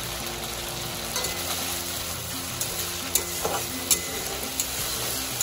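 Ginger-garlic paste sizzling as it fries in oil in a metal kadai, stirred with a metal spatula that clinks against the pan about five times.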